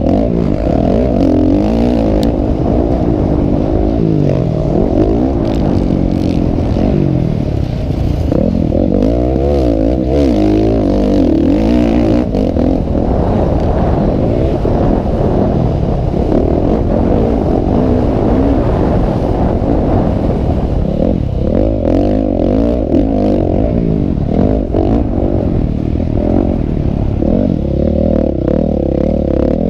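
Several motocross bikes racing, their engines revving up and down in overlapping pitches without a break.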